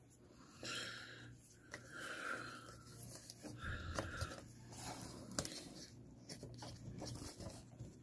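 Faint small clicks and rustles of laptop screen parts being handled and fitted, with a few audible breaths.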